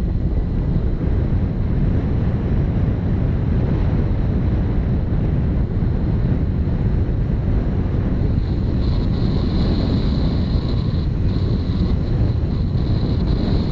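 Wind buffeting the microphone of a camera on a moving motorcycle: a loud, steady rumble, with a thin high hiss joining about nine seconds in.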